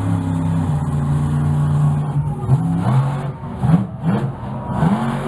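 Monster truck engine running at high revs, held steady for about two and a half seconds, then revved up and down repeatedly, about twice a second, as the throttle is worked.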